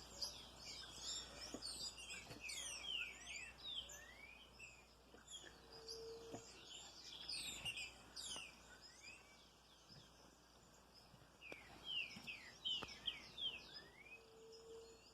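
A chorus of many small birds chirping at once, faint, with quick falling notes overlapping in an agitated stream and a short pause near the middle. Twice, a brief low steady note sounds under the chirping.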